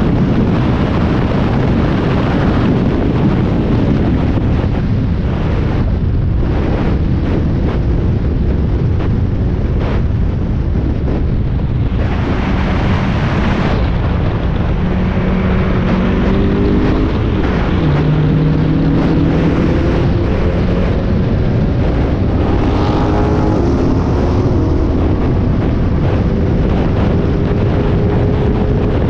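Spec Miata race car's four-cylinder engine at full throttle on track, heard from onboard under heavy wind buffeting. In the second half the engine note climbs in pitch again and again, broken by quick gear changes.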